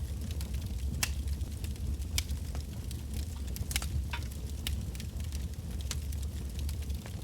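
Wood bonfire burning, with irregular sharp crackles and pops from the burning logs over a steady low rumble of the flames.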